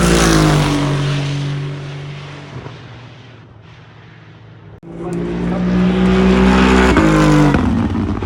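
Two GT-class race cars, their exhausts heavily silenced to meet noise limits, pass one after another. The first car's engine note falls in pitch and fades over the first few seconds. A second car comes up about five seconds in, is loudest near the end, and drops in pitch as it goes by.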